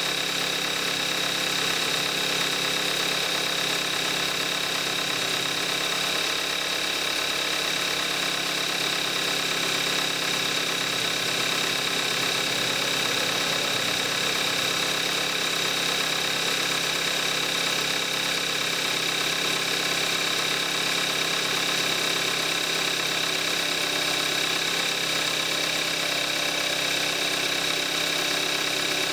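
2014 Kia Forte5's 2.0-litre gasoline direct-injection four-cylinder engine idling steadily while warming up after a cold start, on 5W-30 synthetic oil at 41,000 miles. A steady high whine sits over the idle.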